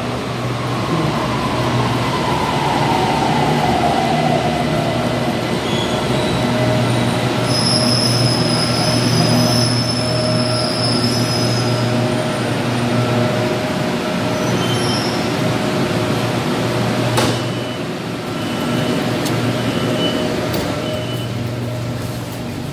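BTS Skytrain electric train pulling into the station: its motor whine falls in pitch as it slows over the first few seconds, and a high squeal rings for a few seconds as it comes to a stop. Short high beeps and a single knock follow near the end.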